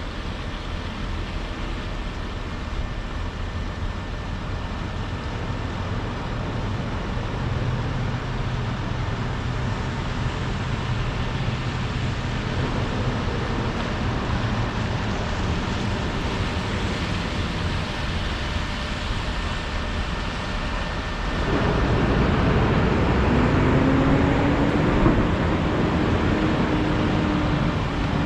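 Volvo 235EL tracked excavator's diesel engine running while it works its hydraulics; about 21 seconds in it grows louder, with a rising tone that then holds, as the machine comes under heavier load.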